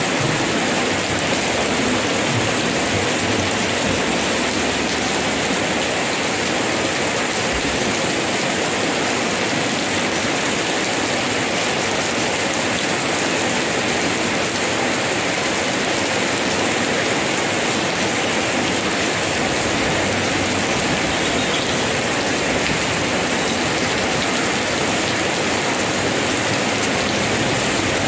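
Heavy rain pouring down steadily: an even, unbroken hiss of downpour.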